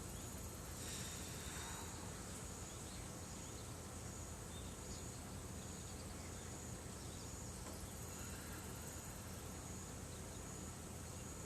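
Insects chirring in a steady, high, faint trill over a low background hum.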